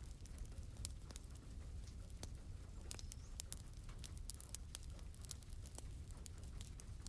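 Wood fire crackling in a fireplace, with frequent irregular sharp pops and snaps over a low steady rumble, and rain pattering.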